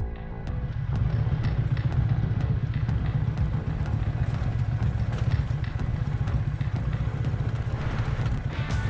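Motorcycle engine running as the bike rides a rough off-road track, a steady low drone with scattered clicks and rattles.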